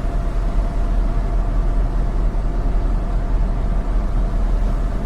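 Semi truck's diesel engine idling: a steady low rumble with a faint constant hum.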